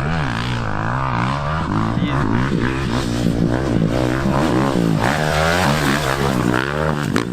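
Dirt bike engine running hard, its pitch rising and falling again and again with the throttle and gear changes.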